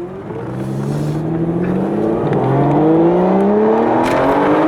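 Aston Martin DBS's V12 engine accelerating hard, its note climbing steadily; an upshift about halfway through drops the pitch and it climbs again.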